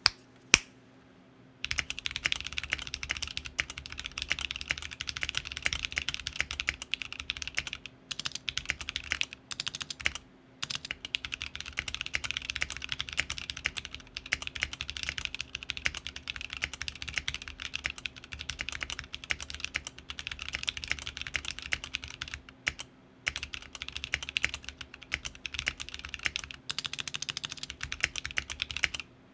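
Fast, continuous typing on a TKC Portico 65% mechanical keyboard with unlubed Kiwi tactile switches and C3 Equalz stabilizers: dense key clacks with a few brief pauses. A single sharp click comes just before the typing begins, about a second and a half in.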